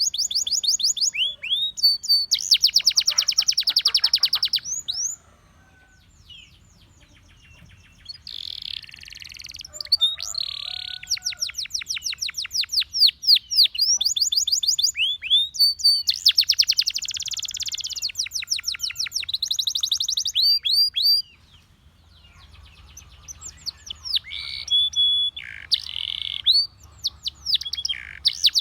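Russian singing canary in full song: long phrases of fast repeated trills and rolling high notes, broken by two short pauses.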